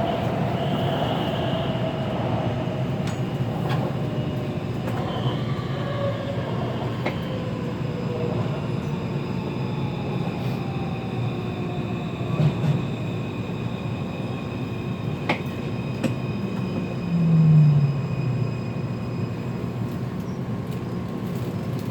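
Taipei Metro C341 train running, heard from inside the car: a steady rumble of wheels on rail with faint high whining tones. Two brief louder low sounds come about twelve seconds in and again near seventeen seconds.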